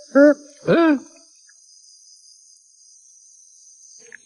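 Crickets chirring steadily in a high, even band, with two short calls in the first second, each rising then falling in pitch.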